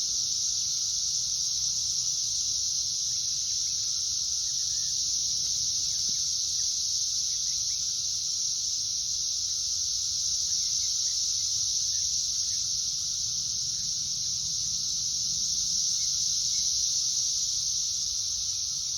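Chorus of periodical cicadas: a loud, steady high-pitched drone from many insects calling at once, unbroken throughout.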